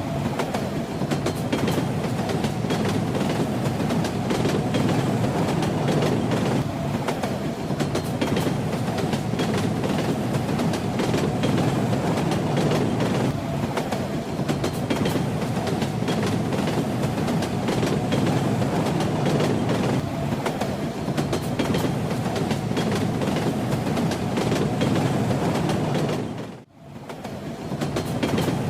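Steady rumble and rattle of a railway carriage in motion, its wheels clattering over the rails. About 27 seconds in, the sound dips away for a moment and comes straight back.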